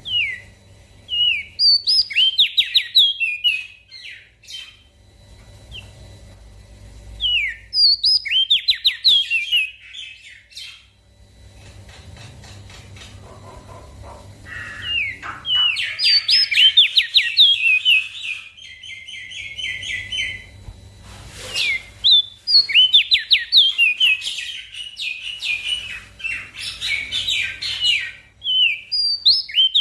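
Small songbird singing repeated phrases of rapid, high chirping notes, with pauses of a second or two between phrases and a longer run of song in the second half.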